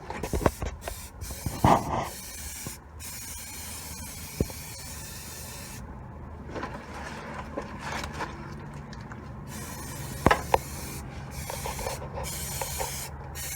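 Aerosol can of high-heat spray paint hissing in several long bursts with short breaks between them, as it is sprayed onto an exhaust pipe. A few knocks and rustles come between the bursts.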